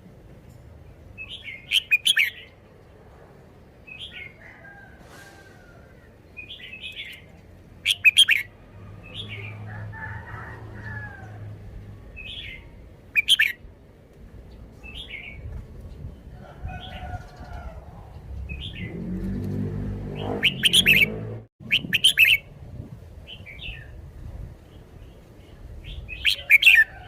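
Red-whiskered bulbul singing short, chirpy whistled phrases every few seconds, some of them much louder than the rest.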